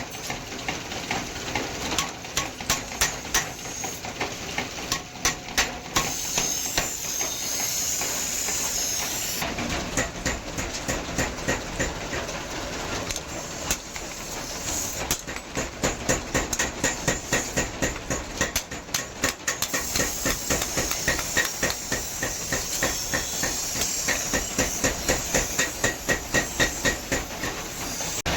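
Hammer blows on iron during forging, in runs of quick strikes of about three to four a second, over a steady hiss.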